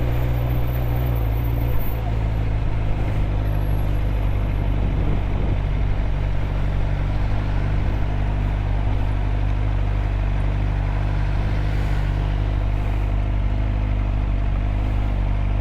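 2013 Suzuki GSX-R 600's inline-four engine idling steadily, with no revving.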